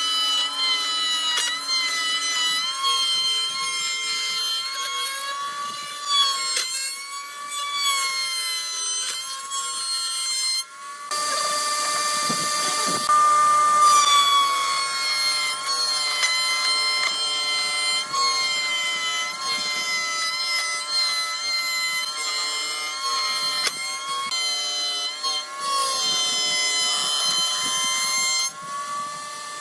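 Electric power tool working wood: a high motor whine whose pitch sags and recovers again and again under load. A harsher stretch of cutting noise comes about eleven seconds in and lasts a couple of seconds.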